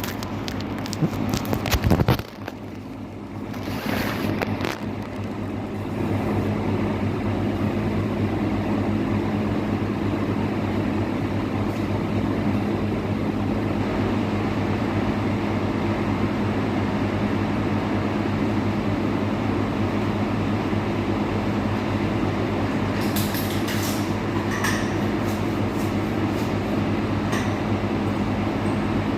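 Steady low machine hum with a constant rushing noise, starting after a few clicks and knocks in the first couple of seconds and a brief quieter stretch.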